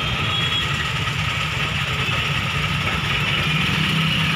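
Steady low engine rumble of idling traffic heard from inside a stopped car's cabin.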